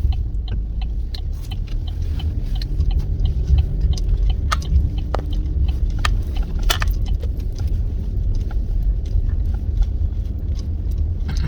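Car driving on the road, heard from inside the cabin: a steady low rumble of road and engine noise, with many short clicks and ticks scattered through it.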